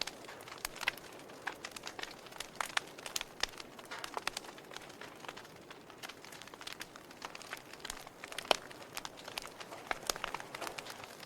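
Wood fire burning in a fireplace, crackling with irregular sharp pops and snaps over a soft hiss, one louder pop about eight and a half seconds in.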